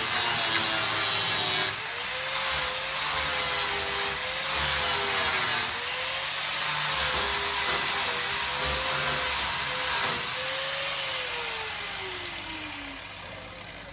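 Angle grinder grinding the rusty sheet-steel floor of a 1955 Chevy truck in passes, with short breaks where the disc lifts off the metal and the motor's whine wavers. About ten seconds in the grinding stops and the motor winds down, its pitch falling.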